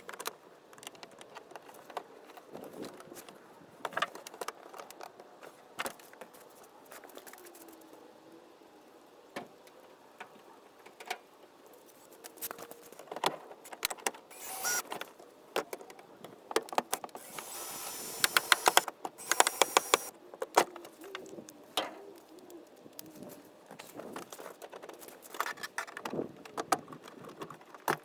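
Hand work on a square-body Chevrolet truck door: scattered metallic clicks, clinks and rattles of tools and door parts. About two-thirds of the way in there is a louder stretch of quick rapid clicking lasting a couple of seconds.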